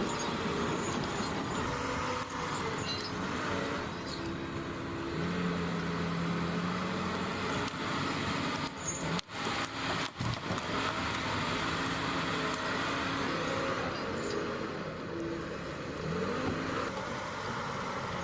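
Heavy diesel logging machinery (grapple skidder and dangle-head processor) running, with the engine drone and several held and shifting tones from engine and hydraulics. The sound drops out briefly twice about halfway through.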